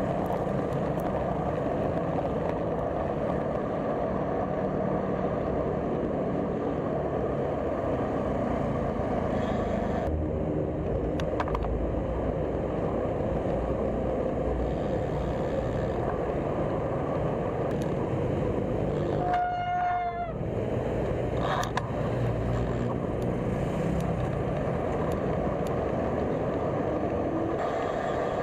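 Steady road-traffic and rushing wind noise heard while riding a bicycle along a busy road. About two-thirds of the way through, a vehicle gives one short honk lasting about a second.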